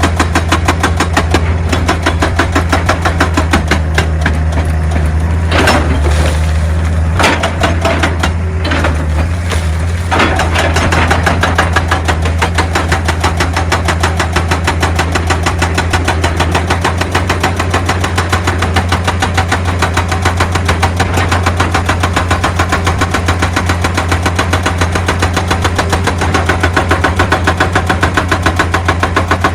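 Excavator's diesel engine running steadily with a rapid, even clatter. A few sharper knocks and scrapes sound between about six and ten seconds in.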